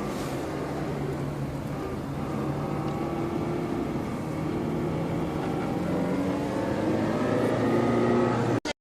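Vehicle engine running steadily, its pitch drifting and slowly rising, before the sound cuts off abruptly near the end.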